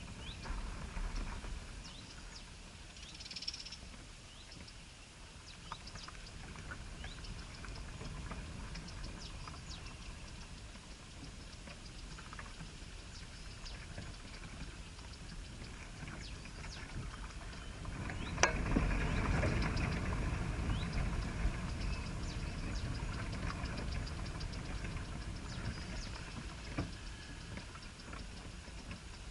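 Small birds rustling and scratching about, with scattered clicks and faint high chirps; a sharp knock about eighteen seconds in is followed by several seconds of louder rustling.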